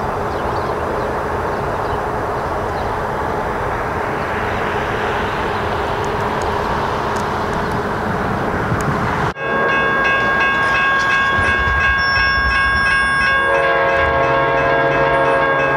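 Rumble and wheel noise of a passing ACE commuter train, growing hissier toward the middle. After an abrupt cut about nine seconds in, a railroad crossing's warning bell rings steadily, and from about four seconds later an approaching train's horn sounds with it.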